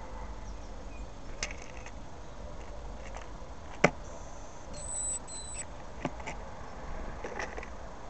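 Small bird moving about on a plastic feeder: scattered light taps and clicks, with one sharp knock just before four seconds in. About five seconds in come two short, thin, very high notes, over a steady low background rumble.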